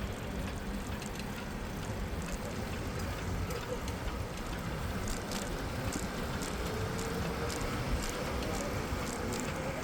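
City street traffic heard from a moving bicycle: a steady low rumble with scattered light ticks and clicks, and a faint drawn-out tone in the last few seconds.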